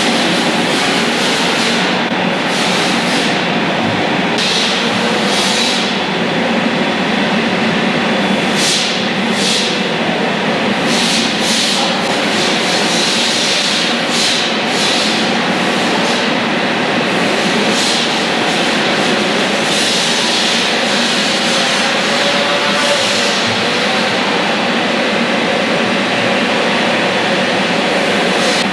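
Fire truck engine running steadily, with short bursts of hiss breaking in every second or two.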